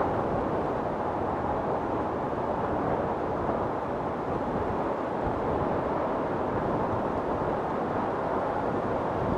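Wind storm blowing steadily, a constant low rushing noise with no distinct gusts or impacts.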